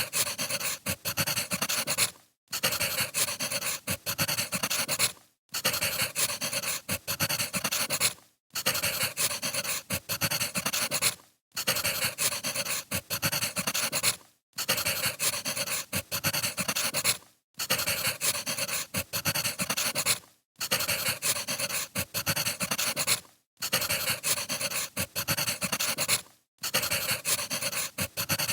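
Crackling wood fire: a dense run of pops and crackles that cuts out for a moment about every three seconds.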